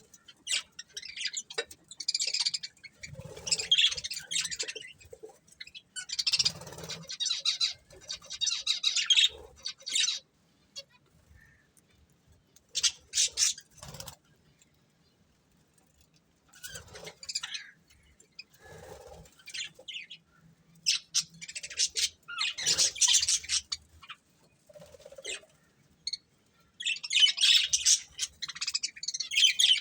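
Pet budgerigars chirping and chattering in quick bursts, with a quiet pause of a few seconds near the middle.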